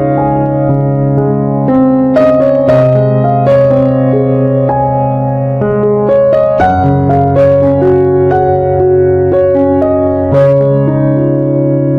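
Background piano music: slow chords over held bass notes that change every few seconds.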